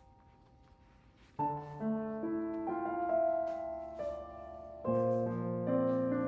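Calm background piano music: after a fading note, a new chord comes in about a second and a half in and another near five seconds.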